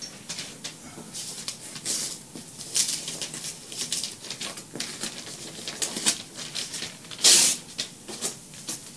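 Hand work on newspaper and cardboard: a run of short, irregular scratchy strokes and rustles, with one louder rustle about seven seconds in.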